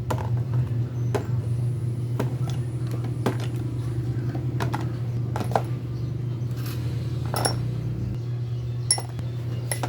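Metal tools and motorcycle front fork parts clinking and knocking now and then during disassembly, over a steady low hum.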